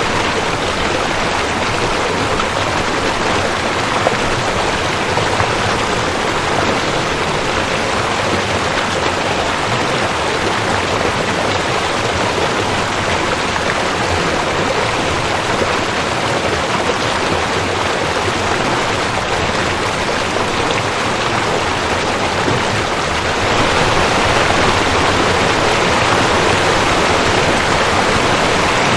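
Rushing creek: water running fast over rocks with a steady, dense rush, growing slightly louder near the end.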